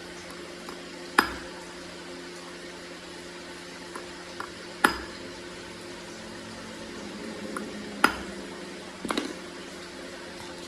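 Three sharp metal knocks, a few seconds apart and each ringing briefly, then a short quick rattle of knocks near the end, over a steady machine hum.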